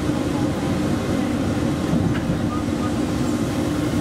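Steady hum and whir inside a driverless airport people-mover train standing at its platform, with a constant low tone from its onboard equipment.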